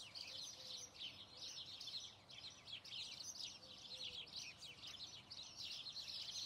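Faint, continuous high chirping and twittering of small birds.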